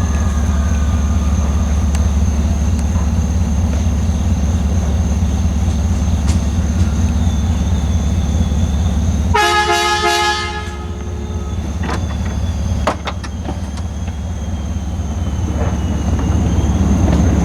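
Diesel locomotive engine running with a loud, steady low rumble. About nine and a half seconds in, its air horn gives one short blast of about a second, a chord of several notes.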